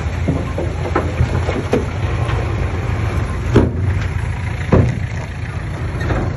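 Komatsu D20P bulldozer's diesel engine running steadily, with several sharp knocks from the machine; the loudest come about three and a half seconds in and just before five seconds in.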